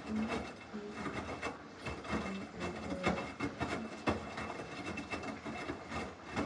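Samsung washing machine running a normal cycle, the drum turning the load with uneven rubbing and knocking and short low hums that come and go.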